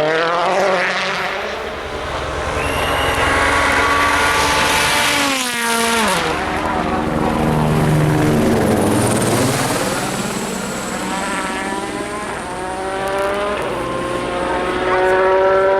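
Rally car engine at full throttle, its note climbing in steps through gear changes, dropping steeply as the car goes past about six seconds in, then climbing through the gears again as it pulls away.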